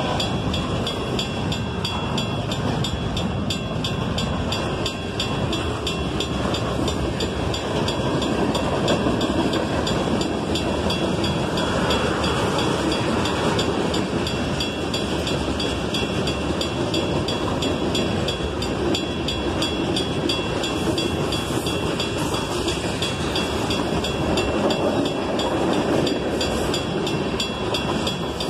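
Freight cars of a passing train rolling by steadily, double-stack container cars and then tank cars, their wheels on the rails making a continuous rumble with light regular clicks.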